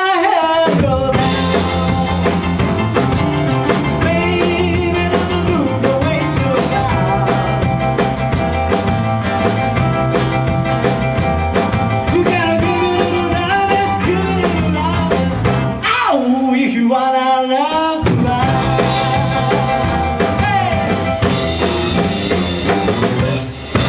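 Band playing a rock-and-roll song with a singer and drum kit. About sixteen seconds in, the low end drops out for roughly two seconds under one sliding pitched line, then the full band comes back in.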